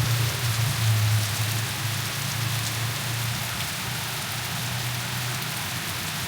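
Heavy rain pouring down, a steady hiss of drops on hard surfaces, with a constant low rumble underneath.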